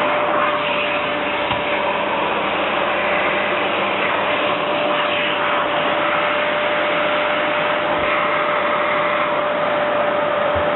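Vacuum cleaner running steadily: an even rushing noise with one steady tone through it.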